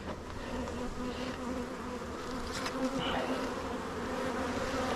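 Many honeybees buzzing in flight around an opened hive, a steady drone.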